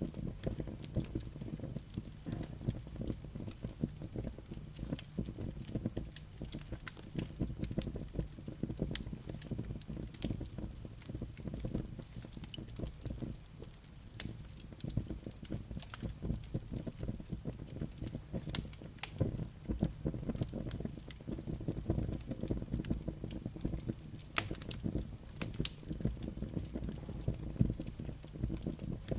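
Firewood burning in a fireplace: flames with a steady low rumble and frequent irregular crackles and pops from the burning wood and embers.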